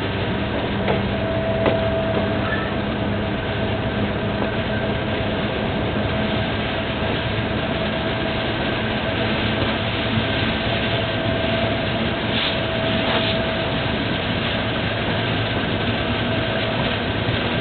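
Diesel-hauled passenger train running, heard from on board: a steady rumble of the wheels and carriage, with a few sharp knocks and a thin high tone that comes and goes.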